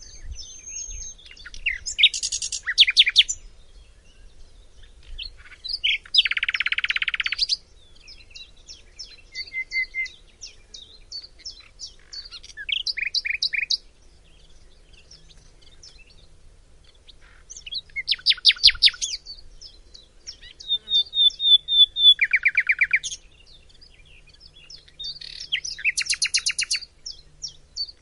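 Chinese hwamei (họa mi) singing a long, varied song: fast trills, quickly repeated notes, short clear whistles, and a harsh rasping phrase about six seconds in.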